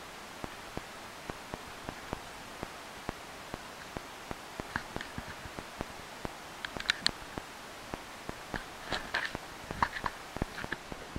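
Scattered raindrops tapping a hard surface close to the microphone, a few a second at irregular spacing, over a steady hiss of rain, with a couple of quick clusters of louder taps about seven and nine to ten seconds in.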